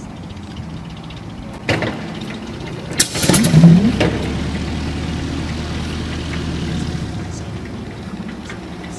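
A large engine firing up with a loud burst about three seconds in, then running steadily with a low, even rumble.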